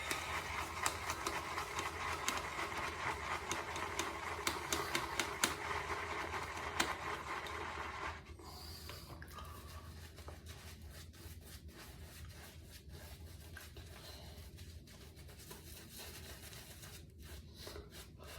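Synthetic shaving brush working lather, a wet, scratchy rubbing with rapid little clicks. It goes quieter after about eight seconds.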